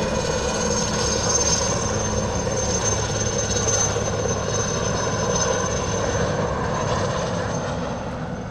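IAR-330 Puma helicopter flying at an airshow display: steady rotor and turbine noise with a high, steady whine, fading away near the end.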